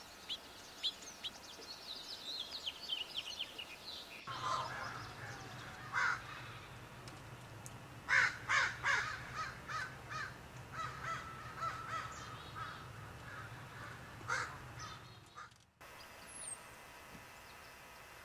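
Wild birds calling: first a small bird's quick, high notes falling in pitch, then a different bird's run of harsh, crow-like calls, several close together.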